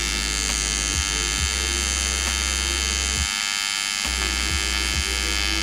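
TIG welding arc on exhaust tubing, buzzing steadily. The low hum cuts out briefly a few times and for most of a second about halfway through, as the arc pauses.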